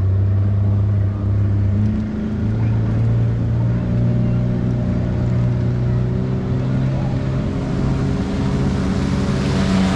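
A motorboat's engine runs steadily under way, with a small shift in pitch about two seconds in.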